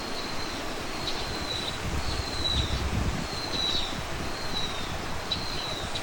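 A bird repeating a thin, high, slightly falling note about once a second, five times, over wind rumbling on the microphone.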